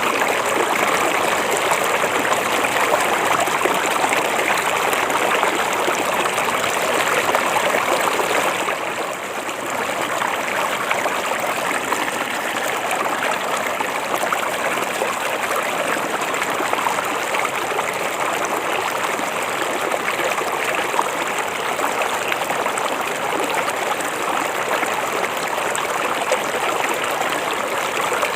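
River water flowing in a steady rushing babble, dipping briefly in level about nine seconds in.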